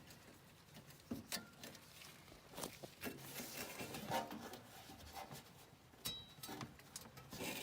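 Scattered light clicks, taps and scrapes of hands working at a gas furnace's blower assembly. The blower motor is seized and does not turn, so no motor hum is heard.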